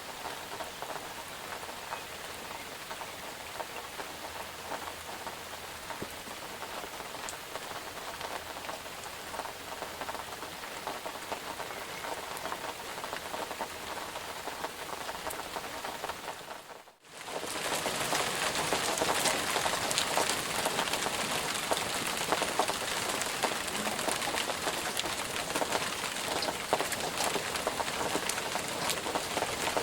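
Steady rain falling, a dense patter of drops. About two thirds of the way through it fades out for a moment and comes back louder and brighter, with heavier, sharper drops.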